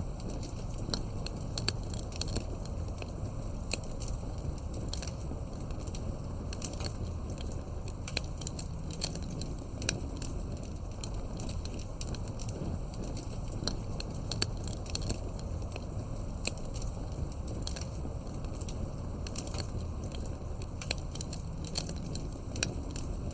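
Campfire burning, with a steady low rumble of flame and irregular sharp crackles and pops from the burning wood.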